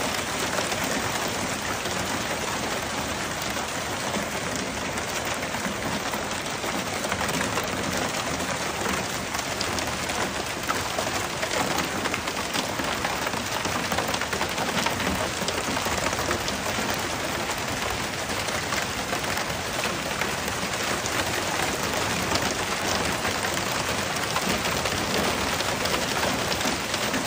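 Heavy rain falling steadily on hard surfaces, a dense patter of drops.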